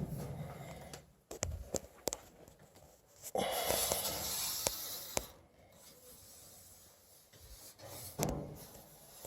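Handling noises: rubbing and scraping with scattered sharp clicks, and a louder stretch of scratchy scraping about three and a half to five seconds in.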